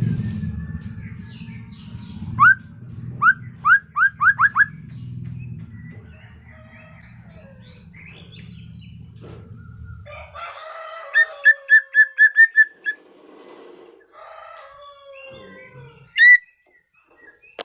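White-rumped shama (murai medan) singing: a string of rising whistled notes, then a quick run of repeated notes, and a sharp upswept note near the end. Under the first part runs a low engine rumble that stops about ten seconds in.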